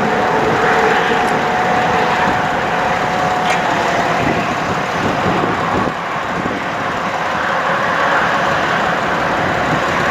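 The 2009 Sterling Bullet bucket truck's engine running steadily at idle, with a steady whine over it.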